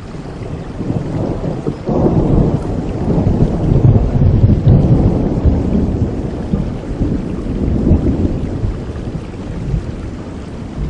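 Rolling thunder over steady rain: a low rumble sets in sharply about two seconds in, swells for several seconds and slowly dies away under the rain's hiss.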